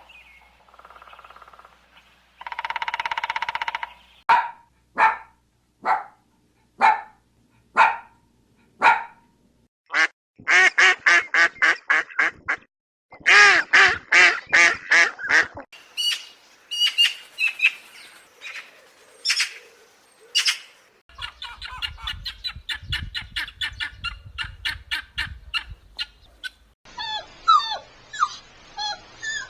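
A string of different animal calls edited one after another. First come a long call, then single short calls about once a second, then rapid runs of short pulsed calls. High chirps follow, then a rapid pulsing call with a low rumble under it, and warbling bird-like calls near the end.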